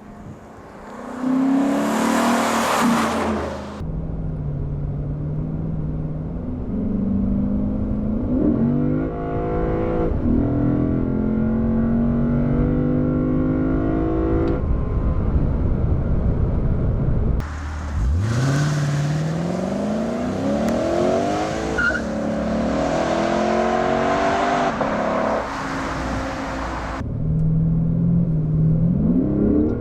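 2015 Lexus RC F's V8 engine and exhaust under way: steady running with a rising pull, then about two-thirds of the way in a hard acceleration, pitch climbing and dropping back at each upshift, before the throttle lifts near the end and revs start climbing again.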